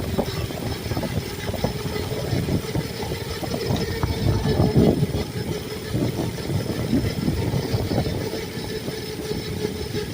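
Mini bike's small engine running at a steady pitch while riding, with rough low noise underneath that is loudest about four to five seconds in.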